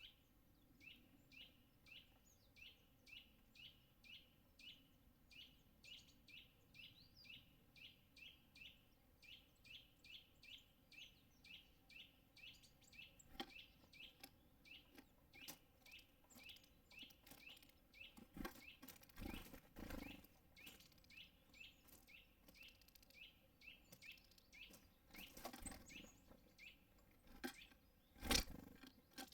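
A small bird repeating one short, high call note over and over, about three times a second, for most of the time. A few dull knocks come in the second half, the loudest near the end.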